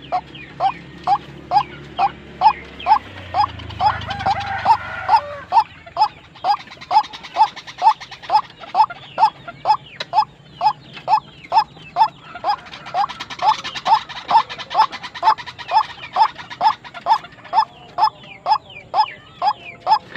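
White-breasted waterhen calling: short rising 'kru-ak' notes repeated steadily, about two to three a second, without a break. A low rumble rises under the calls a few seconds in and fades away again.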